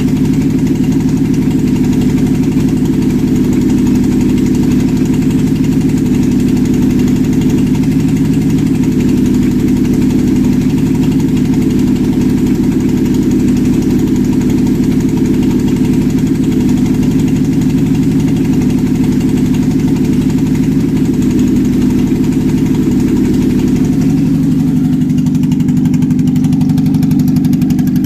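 Used Mazda-built PE-VPS 2.0-litre four-cylinder petrol engine idling steadily on a test stand; the note shifts slightly near the end.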